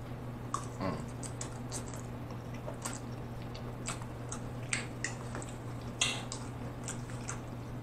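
Close-miked chewing of a mouthful of spaghetti: soft wet mouth clicks and smacks, scattered irregularly a few times a second, over a steady low hum.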